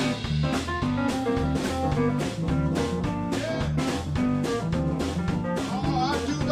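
A live blues band playing a passage with no singing: drum kit and bass keep a steady groove under keys and a lead line of bent notes.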